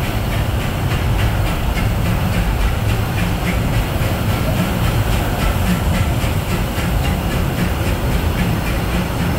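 Disneyland Railroad train, led by the steam locomotive E.P. Ripley, running at steady speed through a tunnel, heard from aboard a passenger car: a loud, even rumble of wheels on rail with a quick, regular ticking over it.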